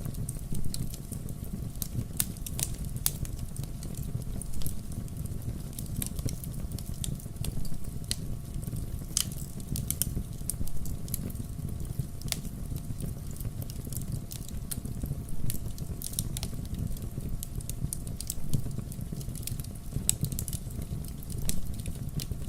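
Wood fire burning: irregular sharp crackles and pops of burning logs over a steady low rumble.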